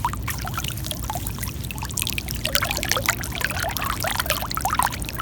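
Trapped floodwater pouring and gurgling out from under the ground cover once it is moved, a steady gush full of small splashes.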